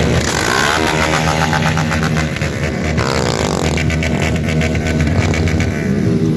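Motorcycle engines revving at high rpm, the pitch rising and falling.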